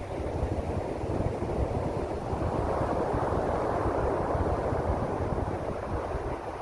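Surf: a wave rushing in, its wash swelling to a peak midway and easing off, over wind on the microphone.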